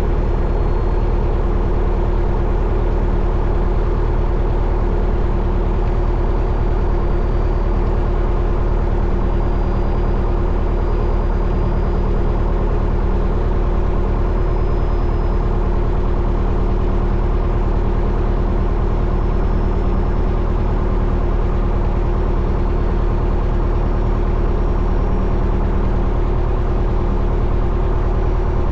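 Light aircraft's four-cylinder piston engine and propeller idling steadily just after a cold winter start, with an even, unchanging tone.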